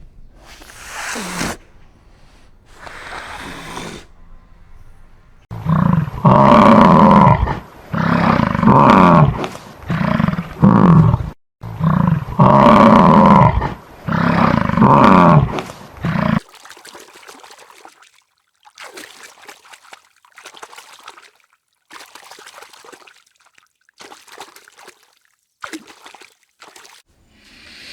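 A lion roaring: a series of about seven loud, drawn-out roars, each around a second long with short gaps, starting about six seconds in and ending near the middle. Faint short rustling sounds follow.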